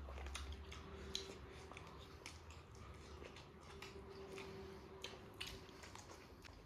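Faint chewing while eating, with small scattered mouth clicks, several a second, over a faint steady hum.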